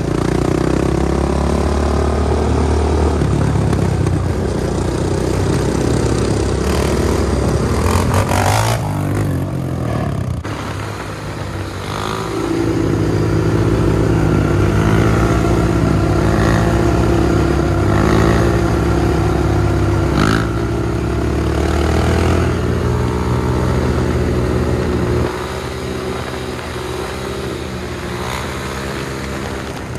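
Dirt bike engine running, revving up and down over and over, then settling a little lower near the end.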